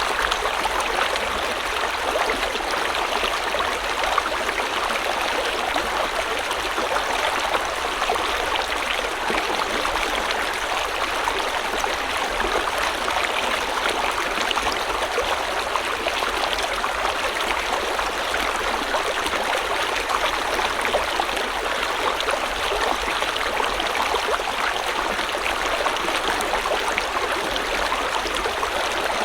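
River water flowing over rocks, a steady, even rush with a fine babbling texture.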